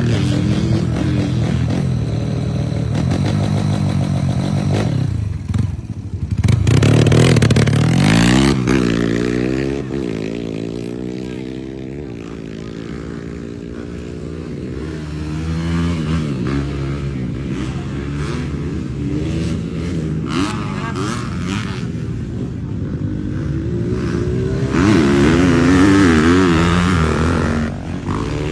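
Underbone motorcycle engines revving, their pitch rising and falling with the throttle. They are loudest about seven seconds in and again near the end.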